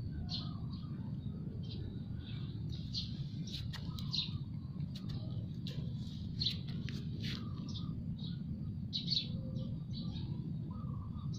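Small birds chirping in short, high repeated calls, many in a row, over a steady low background rumble, with a few brief clicks near the middle.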